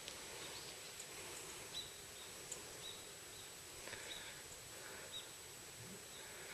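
Quiet forest ambience with a small bird giving short, high chirps about once a second, and faint rustling.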